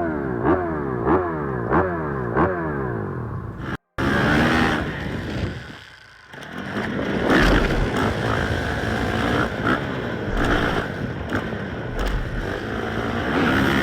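Dirt bike engine revving in four quick rising sweeps about half a second apart. After a brief cut-out it runs on at changing revs, dropping away about six seconds in and then coming back up.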